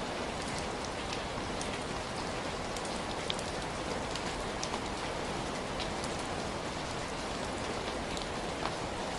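Heavy rain falling steadily: a dense, even hiss with scattered sharper ticks of single drops hitting a surface.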